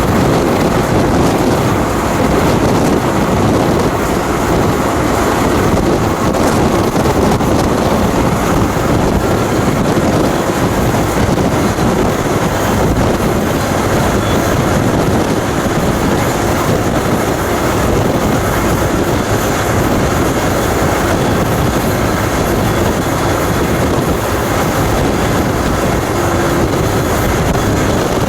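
Freight train running, heard from aboard a rail car: a loud, steady noise of wheels on the track, with wind on the microphone.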